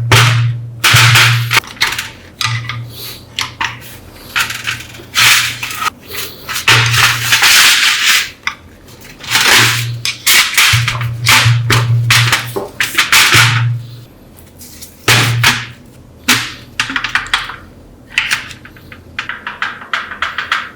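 A workshop tool working on metal in short, repeated bursts of hissing, abrasive noise, with a low motor hum coming and going.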